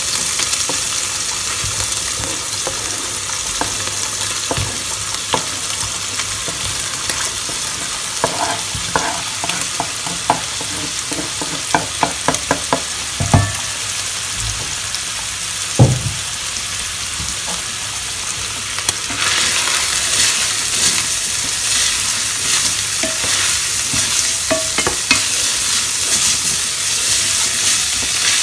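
Ground beef, onions and garlic sizzling in olive oil in a frying pan while a utensil stirs them, scraping and tapping against the pan. A run of quick taps comes around the middle and two louder knocks follow. The sizzle grows louder about two-thirds of the way in.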